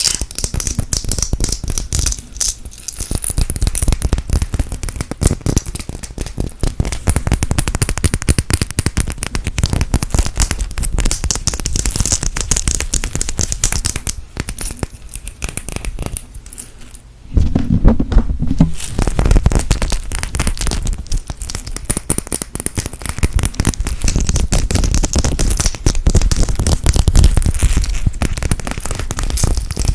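Close-miked ASMR trigger sounds: dense, rapid crackling scratches right at the microphone, louder and fuller a little past halfway.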